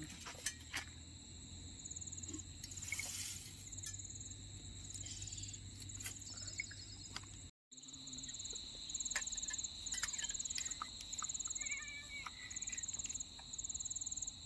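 Crickets and other insects chirping: a steady high buzz under repeated short pulsed trills, with a few light clicks.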